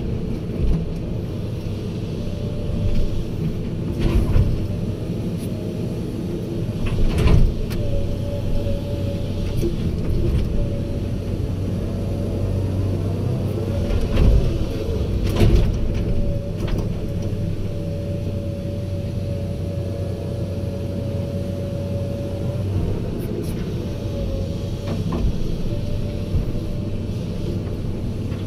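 Heavy diesel machinery running steadily, with a high whining tone that comes and goes and a few loud clanks, as in excavation loading work.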